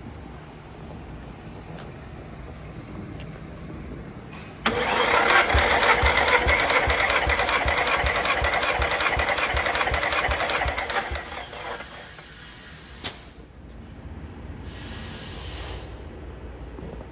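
Nissan SR20DET engine cranked over on its starter for about seven seconds during a compression test, with an even, rapid pulse from the cylinders coming up on compression. A single sharp click follows, then a brief hiss.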